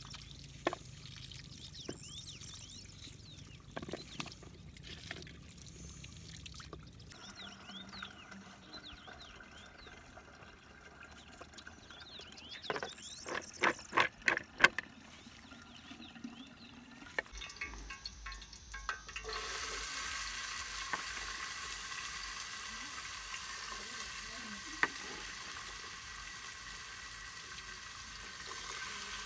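Food starts sizzling in a frying pan about two-thirds of the way in and goes on steadily. Before that there is a quick run of sharp knocks and clatter.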